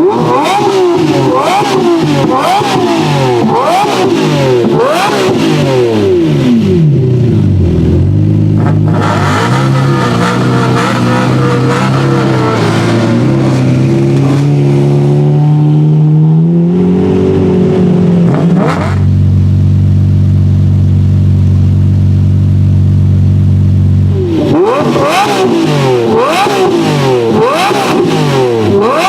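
Lamborghini Murciélago LP640's 6.5-litre V12 through an iPE aftermarket exhaust, revved in a quick series of sharp blips. It then climbs in one long rev that drops away, holds steady revs for a few seconds, and goes back to quick blips near the end.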